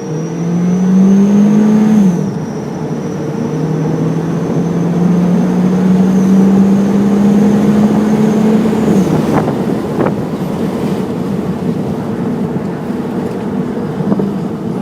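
Car accelerating with a bolt-on exhaust turbo whistle: a thin, high whistle rides over the engine as it revs up. The engine note drops about two seconds in, climbs slowly again, and falls away about nine seconds in, with the whistle stopping there too, leaving steady running. This larger whistle is louder and higher-pitched than the small one and starts whistling at low RPM.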